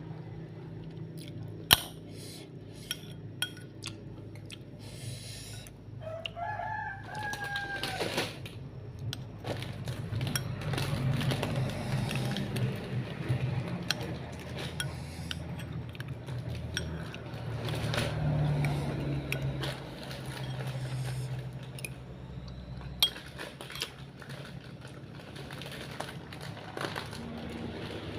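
A rooster crows once, a single call of about two seconds that rises and then falls, about six seconds in. Around it there is a steady low background hum with scattered sharp clicks and knocks.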